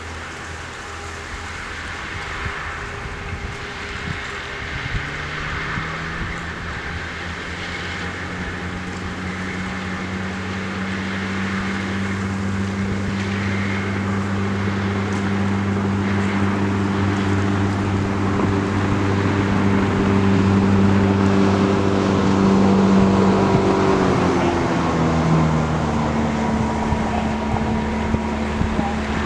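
A motor engine passing with a steady hum. It grows gradually louder over about twenty seconds, then its pitch drops and it begins to fade.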